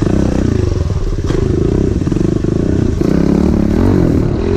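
Pit bike engine running while riding, its pitch rising and falling as the throttle is worked from about three seconds in.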